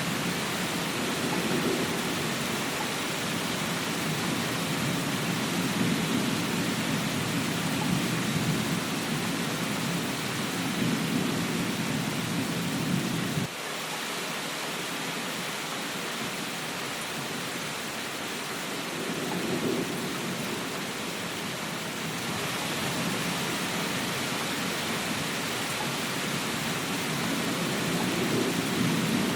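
Steady rain hiss with low rolling thunder rumbling underneath. The rumble cuts off suddenly about halfway through and swells back faintly twice later.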